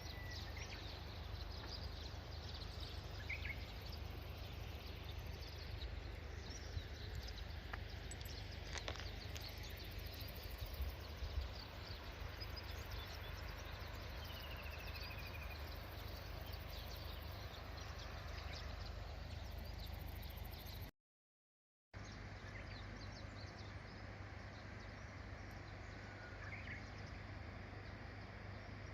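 Outdoor ambience: a steady rushing hiss with scattered short bird chirps and one falling call. It breaks off into complete silence for about a second, about twenty seconds in, then resumes.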